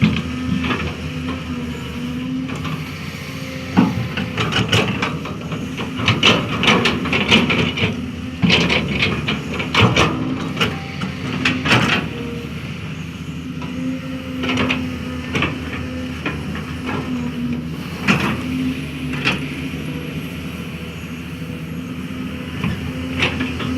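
Excavator engine running steadily while the bucket digs and spreads soil. Bursts of clanking and scraping come between about 4 and 12 seconds in, and again briefly later.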